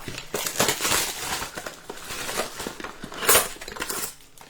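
Trading-card pack wrappers and box packaging crinkling and tearing as packs are ripped open, in a string of crackly rustles with a louder tear about three seconds in.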